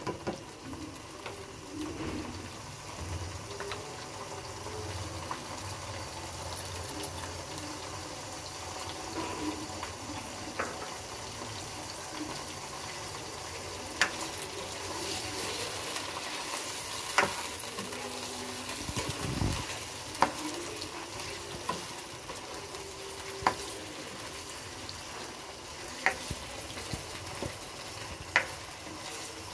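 Boneless chicken pieces sizzling in hot oil in a nonstick karahi, stirred with a spatula. From about ten seconds in the spatula knocks sharply against the pan every few seconds.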